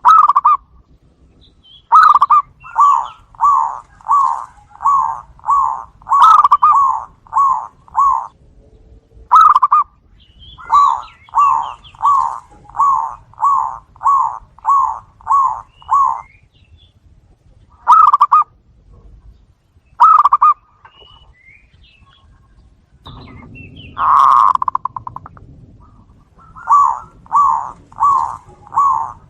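Zebra doves (perkutut) cooing and answering each other. They give runs of quick, short coo notes, about two a second, in three runs, with a few single notes between them.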